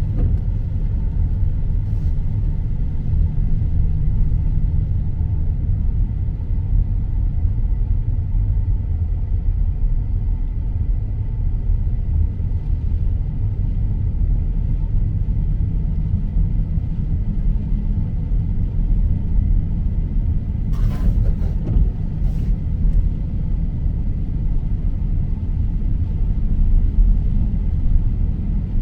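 Car driving, a steady low rumble of road and engine noise, with a couple of short clicks about three-quarters of the way through.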